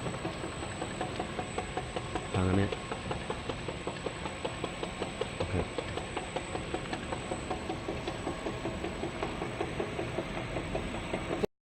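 Double-side labeling machine for oil pails and big bottles running: a steady mechanical clatter with rapid, regular ticking and a thin high whine, and a short, louder buzz about two and a half seconds in. The sound cuts off suddenly just before the end.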